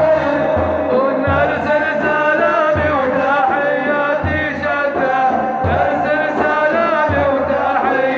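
Male voice chanting an Arabic madih (Islamic praise song) in a melismatic Middle Eastern style, over a low beat that comes about every second and a half.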